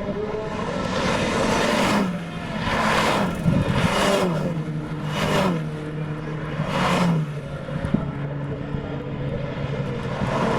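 Renault Clio Cup race cars passing one after another at racing speed, about four pass-bys, each engine note swelling and then dropping in pitch as it goes by.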